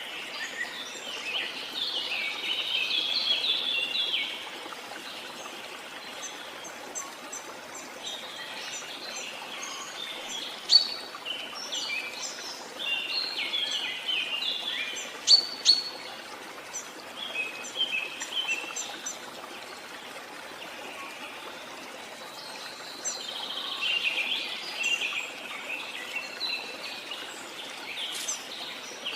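Steady rush of a waterfall with birds chirping and chattering over it in repeated bouts; two short, sharp high calls stand out, about a third of the way in and again about halfway.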